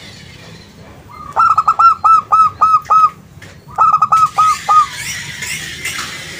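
Zebra dove (perkutut) singing: two bursts of its quick, rhythmic cooing, each a string of about six or seven short clipped notes, the second starting about a second after the first ends.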